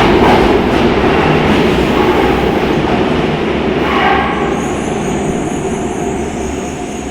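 Yokohama Municipal Subway Blue Line 3000N-series electric train running on the track, its rolling noise gradually fading as it pulls away.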